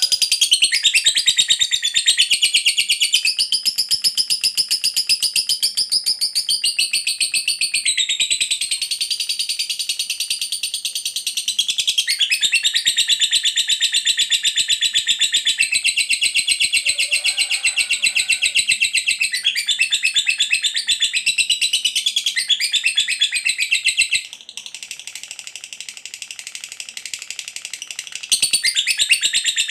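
Lovebird singing a long unbroken ngekek: a rapid, high-pitched chattering trill that dips in level for a few seconds near the end, then picks up again.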